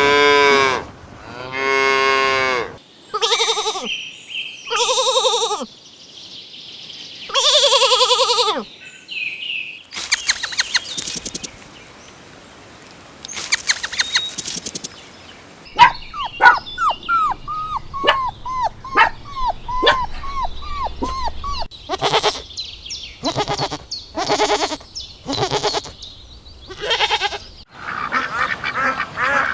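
A succession of different farm animal calls, one kind after another: cattle mooing at the start, then other pitched animal calls, clicking, a run of short falling chirps and short sharp calls.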